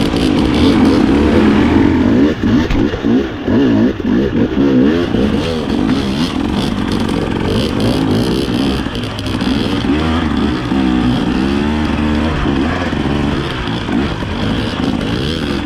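Dirt bike engine revving up and down with constant throttle changes, its pitch rising and falling every second or so, with some clattering.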